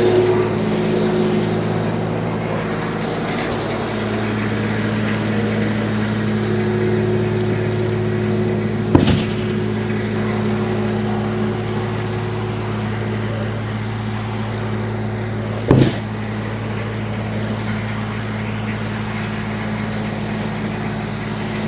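Tractor engine running steadily at a constant speed, powering the sawmill. Two brief sharp knocks sound, about nine seconds in and again about sixteen seconds in.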